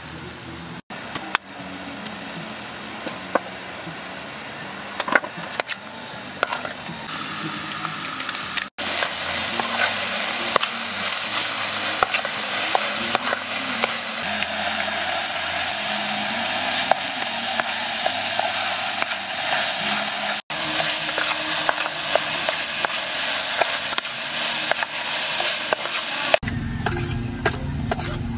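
Meat sizzling and steaming in an aluminium camping pot over a camp stove, with a spoon stirring and clicking against the pot. The hiss grows louder about a third of the way in, and near the end it gives way to a low rumbling noise.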